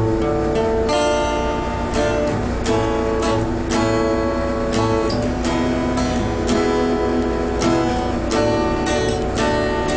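Acoustic guitar strumming chords about once a second, each chord ringing on: the instrumental intro of a song.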